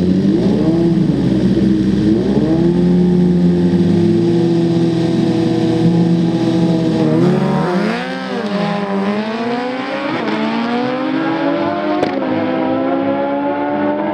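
Two superbikes, one a Suzuki Hayabusa, accelerating hard side by side down a drag strip. The engine notes climb and drop back with each upshift. The sound eases slightly about eight seconds in as the bikes pull away.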